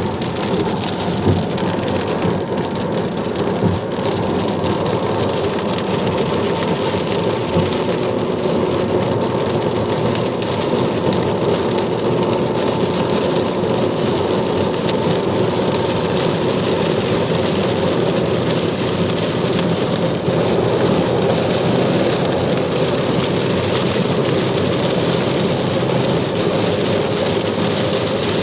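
Heavy rain falling steadily, with a few sharp knocks in the first several seconds.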